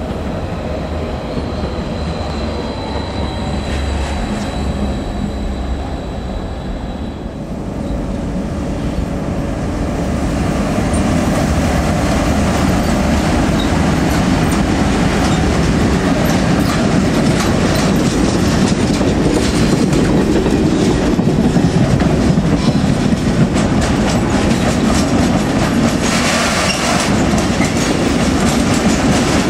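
A Stadler FLIRT electric multiple unit with a steady high electric whine that fades out after about seven seconds. Then a heavy mixed freight train hauled by two SBB Re 420 electric locomotives passes close by, its wagons clattering and rumbling, louder from about ten seconds in and harsher near the end.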